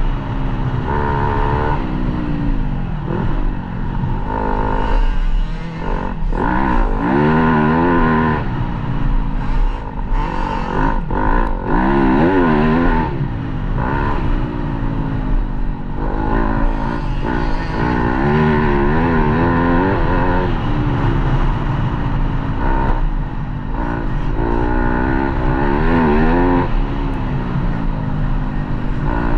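Motocross dirt bike engine revving hard and repeatedly, the pitch climbing and dropping back every second or two as the rider works the throttle and shifts through the gears, over a steady low rumble.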